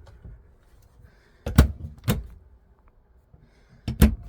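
A few sharp knocks and thumps in a small room, in two clusters about a second and a half and four seconds in, with quiet room tone between.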